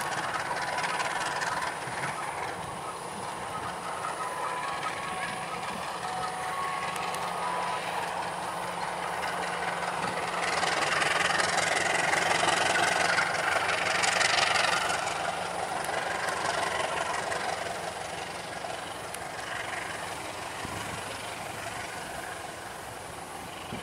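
Diesel locomotive running, then a passenger train rolling past on the rails. Its wheel and track noise swells to its loudest about 11 to 15 seconds in and fades slowly as it moves away.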